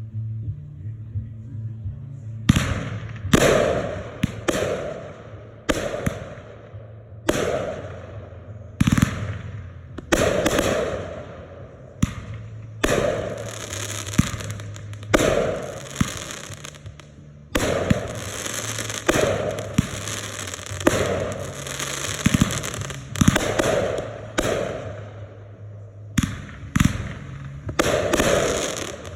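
Consumer fireworks going off in quick succession: sharp bangs about every second, starting a couple of seconds in, with stretches of continuous crackle between them.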